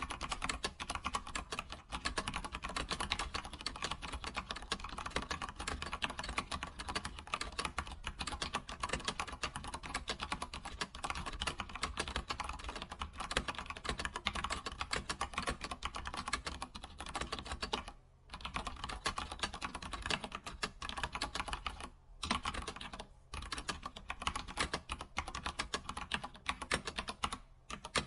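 Computer keyboard typing: a fast, continuous run of key clicks, broken by a few short pauses about 18, 22, 23 and 27 seconds in.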